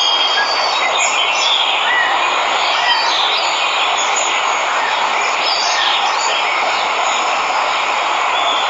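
Steady rushing of a waterfall, with birds chirping briefly here and there over it.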